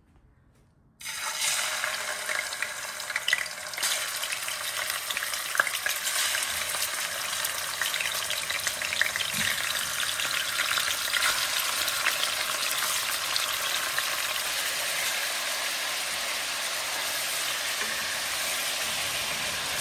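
Food sizzling in hot oil in a pan, starting suddenly about a second in as it goes into the oil, then a steady crackling sizzle.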